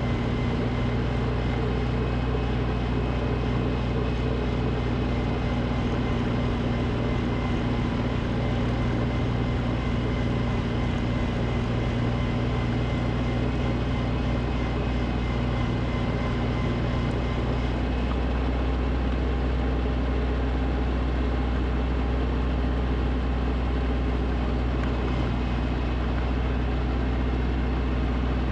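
Snowblower engine running steadily at a constant speed, with an even engine drone throughout.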